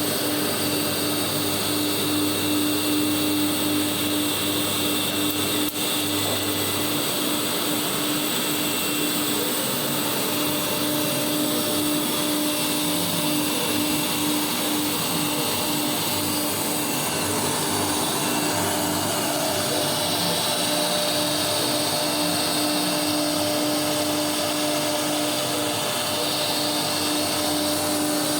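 A three-axis CNC engraving router running together with a vacuum cleaner: a steady mechanical noise with a constant hum and a high whine, unbroken throughout.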